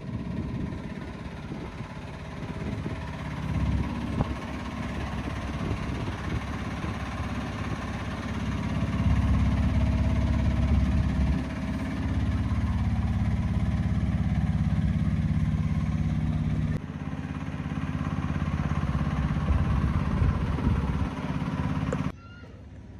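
Heavy truck diesel engine running with a deep steady drone, growing louder about nine seconds in, then cutting off abruptly near the end.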